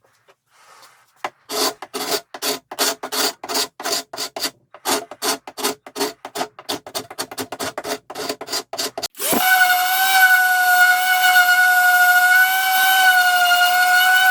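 A quick run of rasping strokes, as of a hand tool worked back and forth on wood, at about three a second. About nine seconds in, a power tool's motor starts up and runs at a steady high whine.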